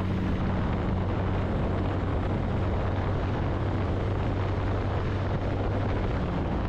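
Motorcycle engine running at a steady cruise, with wind and road noise over it.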